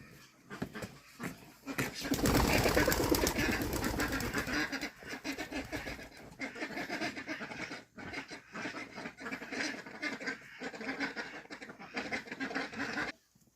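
Animal calls, loudest a couple of seconds in, cutting off abruptly near the end.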